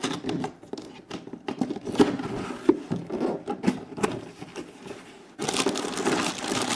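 A cardboard toy box being opened by hand: scattered scrapes, taps and rustles of the flaps and contents, then from about five seconds in a steady crinkling of plastic packaging.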